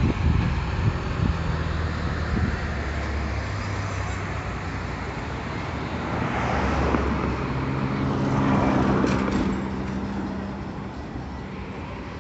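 An engine running steadily, with a swell of passing vehicle noise that rises and fades between about six and ten seconds in.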